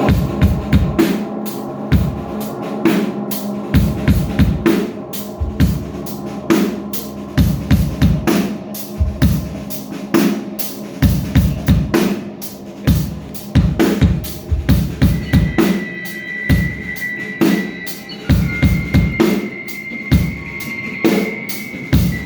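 Live band's drum kit pounding out a fast beat of kick, snare and cymbals over held, ringing pitched notes. A thin, steady high whine comes in about two-thirds of the way through.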